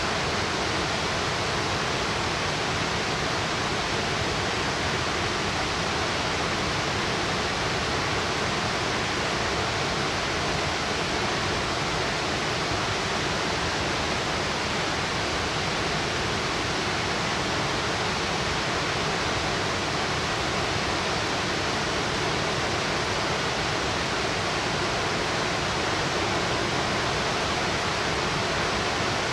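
Steady, unbroken rushing roar of a 60-metre plunge waterfall, Senpiro Falls, pouring water down a sheer drop.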